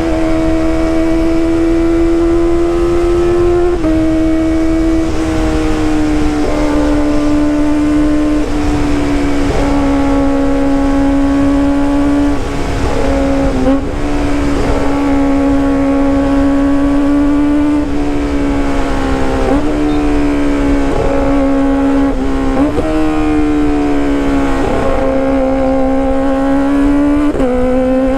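Kawasaki ZX-25RR's 250 cc inline-four engine and exhaust running at high, fairly steady revs under way. The high, even note dips briefly and recovers every few seconds as the throttle is eased and reopened.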